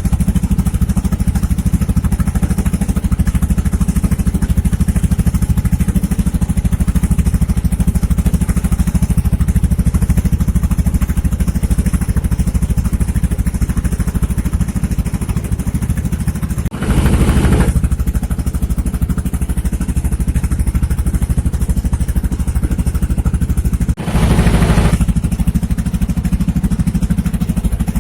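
Boat engine running steadily at an even speed, with two brief louder rushes of noise, one about two-thirds of the way in and another near the end.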